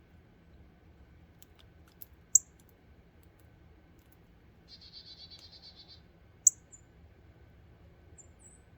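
Wild songbirds calling at a backyard feeder: two sharp, high, very short chip notes, a buzzy high chatter lasting about a second midway, and a few faint ticks, over a low background hum.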